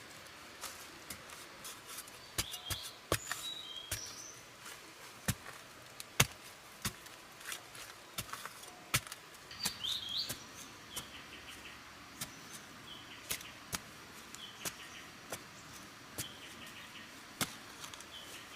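Irregular sharp ticks and taps, a few a second at most, with birds chirping now and then in between.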